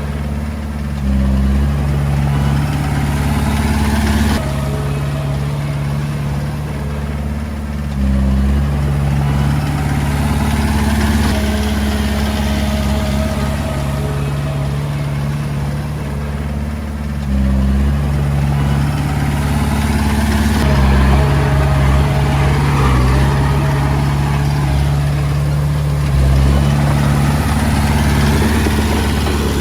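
Komatsu D20A bulldozer's diesel engine running under changing load, its note and loudness stepping up and down every few seconds as it works.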